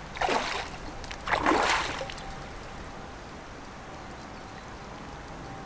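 Two splashes in the river about a second apart as a hooked barbel is brought to the bank, then the steady hiss of flowing water.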